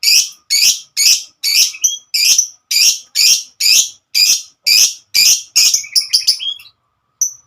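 Lovebird giving a long run of shrill, harsh calls, about two a second, breaking off near the end with one last short call.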